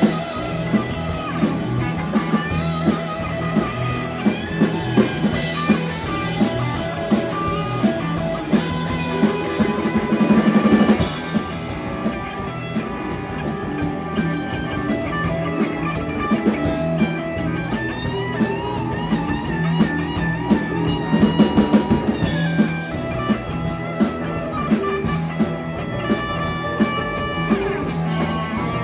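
Live rock band playing an instrumental passage: electric guitar over bass and drum kit, with drum fills about ten seconds in and again past twenty seconds.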